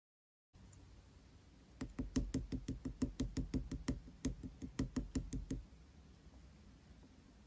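A quick run of about twenty light knocks, roughly five a second, lasting about four seconds.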